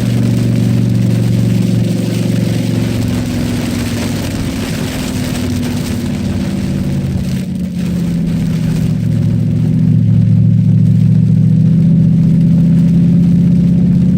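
Cadillac STS-V's supercharged V8 pulling hard on a lap of a wet track, heard from inside the car. The engine note dips briefly about eight seconds in, then runs louder from about ten seconds. A steady hiss of tyre spray on the soaked track sits over the engine.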